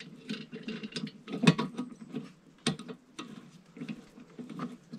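Irregular light clicks and rustles of small parts being handled, a propane regulator among them, with a sharper knock about a second and a half in.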